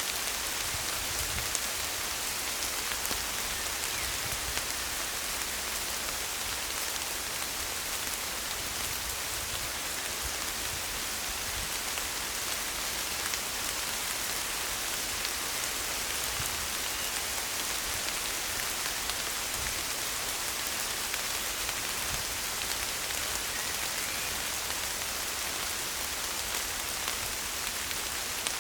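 Steady rain falling on forest ferns and tree leaves: a dense, even hiss of countless drops, with single drips ticking out of it here and there.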